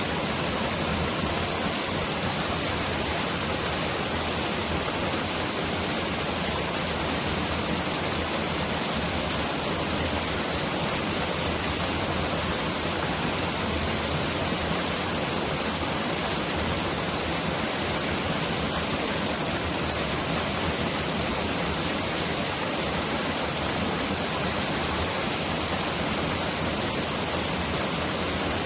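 Mountain valley stream rushing over rocks, a steady, even rush of water that sounds much like heavy rain.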